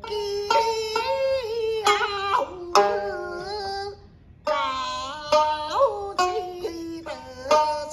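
A woman singing a Nanguan (Southern Fujian art song) melody in a high voice, with slow sliding ornaments. A plucked string instrument accompanies her with sharp, separate notes.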